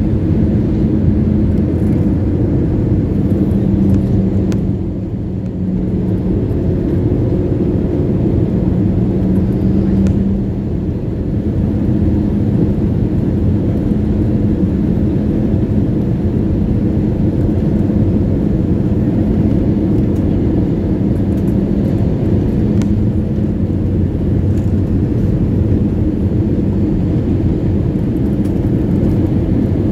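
Airliner cabin noise: a steady, loud low rumble of engines and airflow with a hum that wavers slightly in pitch, dipping briefly twice in the first ten seconds.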